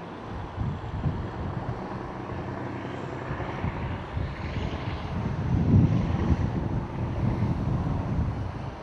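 Boeing 787-8's Rolls-Royce Trent 1000 turbofans passing on a landing approach: a jet rumble with a faint whine that builds to its loudest about six seconds in, then eases. Wind buffets the microphone throughout.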